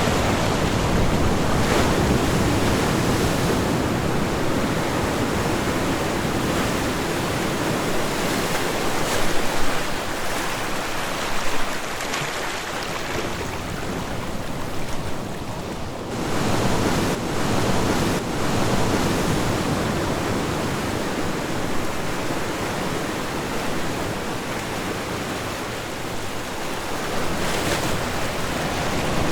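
Ocean waves breaking and washing on a shore, the surf swelling and easing every few seconds, with some wind on the microphone.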